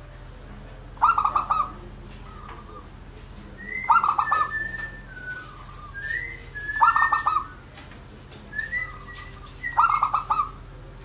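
Zebra dove (perkutut) cooing: four rapid, stuttering coo phrases about three seconds apart, with higher whistled notes in between.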